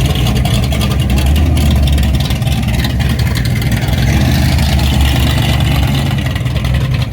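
Big-block V8 engine running with a loud, steady low rumble.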